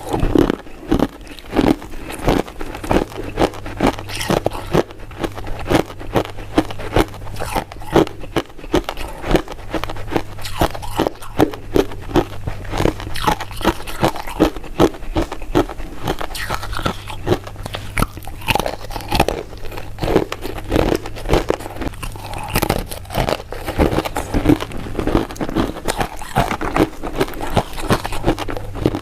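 Close-miked chewing and biting of soft, powder-coated mint candies: a dense run of wet smacks and small sticky clicks, several a second.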